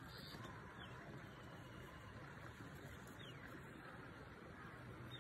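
Faint open-air background hiss with a few short, high bird chirps that fall in pitch, a second or two apart.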